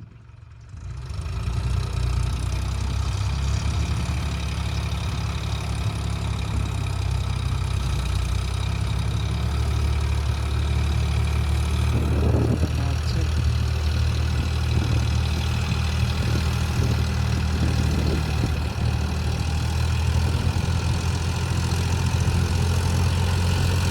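Tractor engine running steadily with a deep, even drone, coming up from near quiet in the first second or two.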